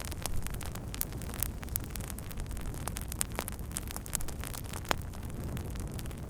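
Wood campfire burning with frequent irregular crackles and pops over a steady low rumble.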